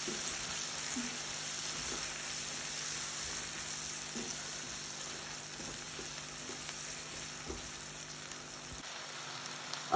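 Chopped tomatoes and whole spices sizzling in hot oil in a frying pan, with a few tablespoons of water just splashed in, while a silicone spatula stirs and scrapes through the masala. The sizzle slowly dies down.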